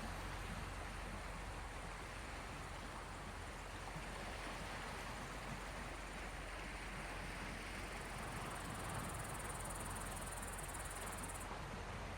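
Small waves on the Gulf of Finland washing steadily, an even rush of water noise. About two-thirds of the way through, a thin high buzz joins in and stops abruptly shortly before the end.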